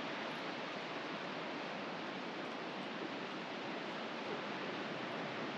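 Pacific surf breaking on the beach, a steady even rush of waves.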